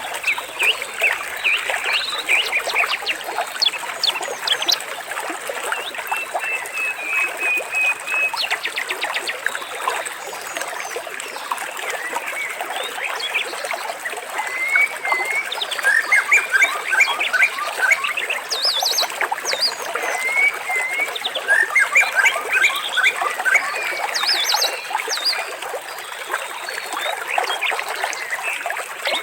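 Water trickling steadily, with many birds chirping and trilling over it in quick runs of repeated notes.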